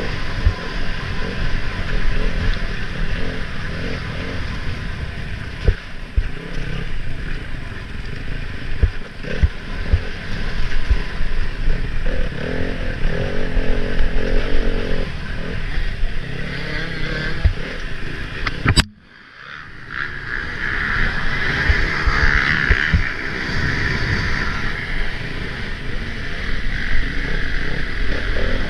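Enduro motorcycle engine running and revving as the bike is ridden over rough ground, with scattered knocks and clatter. About two-thirds in, a sharp click comes with a sudden drop in the sound, which builds back up over a couple of seconds.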